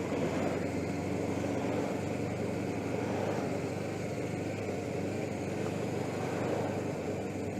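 Suzuki GS500E's air-cooled parallel-twin engine running steadily while the motorcycle is ridden, under a steady rush of wind noise.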